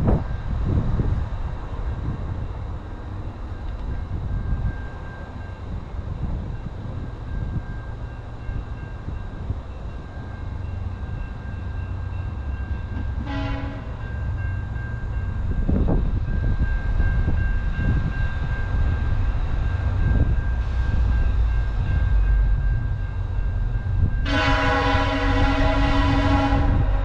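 Diesel train approaching, its low rumble growing louder, with the locomotive's horn sounding one short blast about halfway through and a long blast of a couple of seconds near the end.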